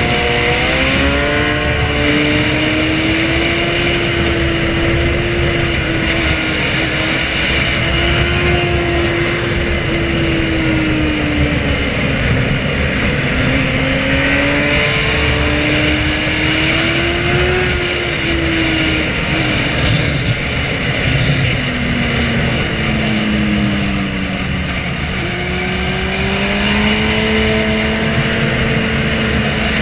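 Inline-four sport-bike engines revving as the bikes accelerate and shift, the pitch rising and falling with each gear change. Underneath there is a steady rushing noise. The pitch sinks about three quarters of the way through and then climbs again.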